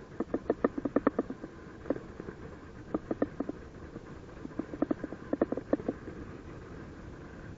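Paragliding variometer beeping in quick runs of short beeps that break off and resume, then stop about six seconds in, over steady wind hiss. This is the climb tone, which signals that the glider is rising in lift.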